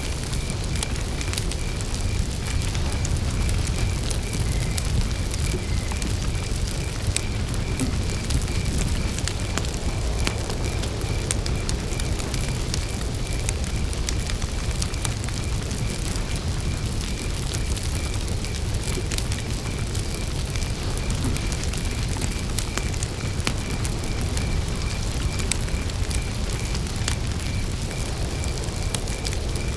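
Wood campfire burning with a steady low rumble and scattered crackles and pops, over a cricket chirping in an even, unbroken rhythm.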